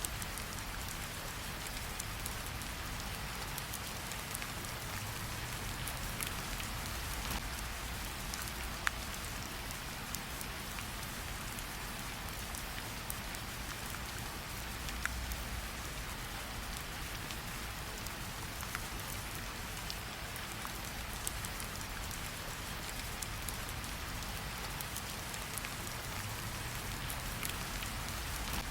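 Steady rain falling, with scattered sharp clicks and a low rumble underneath.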